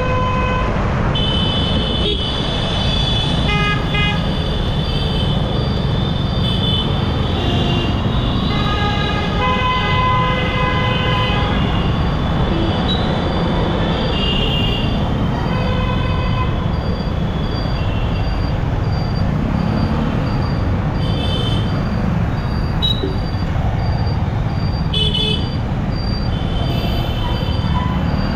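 Steady wind and road rumble from riding a motorcycle through city traffic, with other vehicles' horns honking again and again, some short toots and some held longer.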